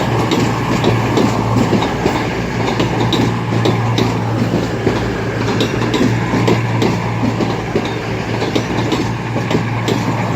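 Class 221 Super Voyager diesel-electric multiple unit moving through the station: a steady low engine hum with quick, repeated clicking of wheels over the rail joints and points.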